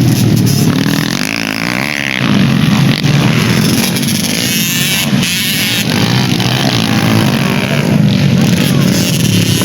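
Dirt-bike engines revving hard, the pitch rising and falling as the bikes are pushed through the course.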